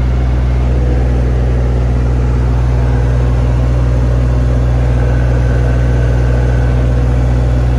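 JCB 8018 mini excavator's diesel engine running steadily, with no change in speed.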